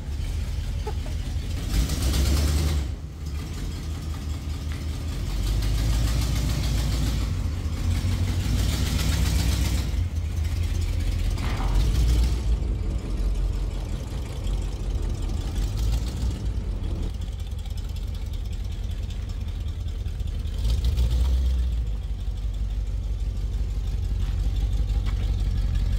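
A 1974 AMC Javelin's engine running with a deep, steady rumble, revved up several times: about two seconds in, from about six to ten seconds, at twelve seconds and again around twenty-one seconds.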